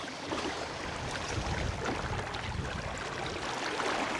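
Wind gusting over the microphone, a low rumble that builds about a second in, over the rush of flowing river water.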